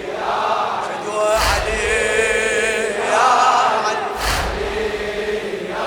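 A crowd of mourners chanting a refrain in unison during a Shia latmiya, with two collective chest-beats (latm) about three seconds apart, about a second and a half in and again about four seconds in.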